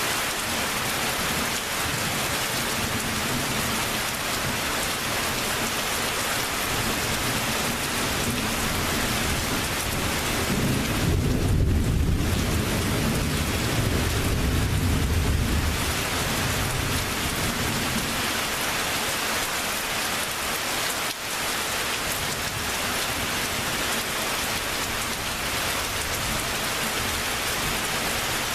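Steady rain hissing, with a long low rumble of thunder that builds about a third of the way through, holds for several seconds, then fades away.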